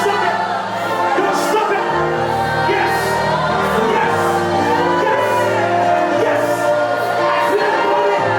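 Live worship music with singing: sustained keyboard chords over bass, with voices in a reverberant hall.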